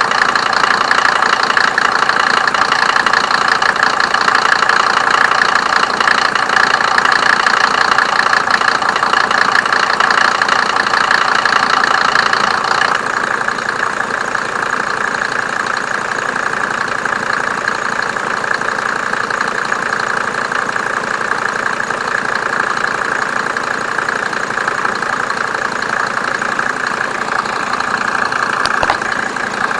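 1987 Mercedes 190D's 2.5-litre OM602 five-cylinder turbo diesel idling steadily. It sounds duller from about halfway through.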